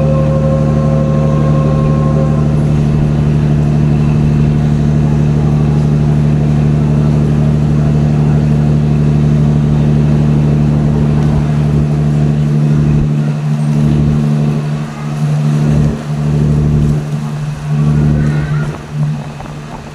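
Diesel locomotive engine running with a loud, steady, deep hum. In the second half the lowest part of the hum drops in and out.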